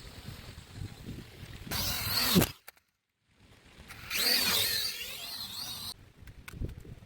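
Small camera drone's propellers buzzing in two loud spells, the high pitch sliding up and down, with a short dead gap between them about halfway. A low rumble comes before, and a few faint clicks follow near the end.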